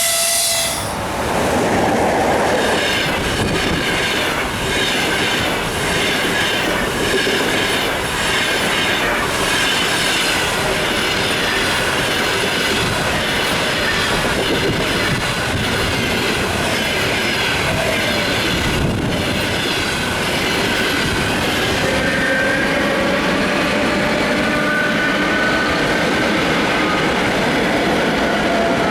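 Long-distance passenger train rushing past at speed: a loud, continuous rolling noise with a rhythmic clickety-clack of wheels over rail joints, and thin wheel squeals in the later part.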